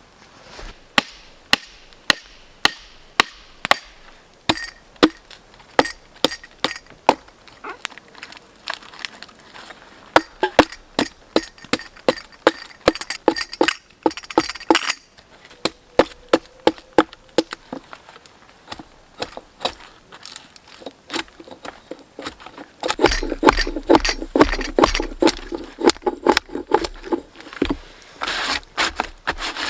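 Wood being worked by hand: a long series of sharp strokes, about two a second, that run together into a denser, rougher stretch after about twenty-three seconds.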